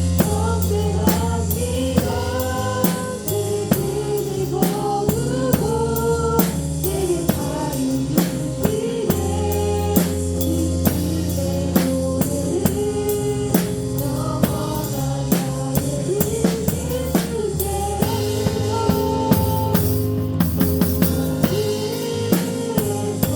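Live praise band playing a worship song with the drum kit up front: a steady beat of kick, snare and cymbals under sustained keyboard or bass chords and a sung melody.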